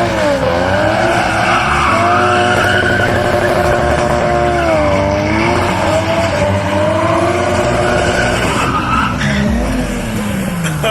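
A car engine revving hard and held at high revs, its pitch dipping and climbing again several times before falling away near the end.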